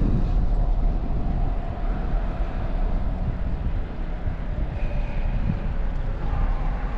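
Wind rushing over the microphone of a camera riding on a moving bicycle: a steady low rumble and hiss with no break.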